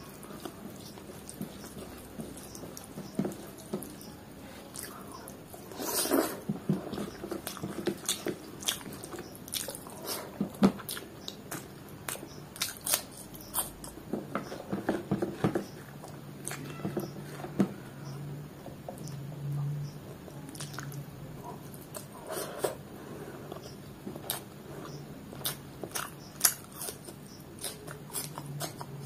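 Close-up chewing and mouth sounds of a person eating rice and chicken liver curry by hand: many short lip-smacks and mouth clicks. A low steady hum comes in about halfway through.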